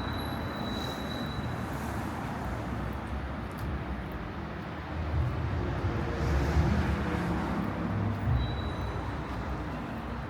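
City street traffic: a steady hum of passing cars, with one vehicle's engine rumbling louder as it passes, from about five to eight seconds in.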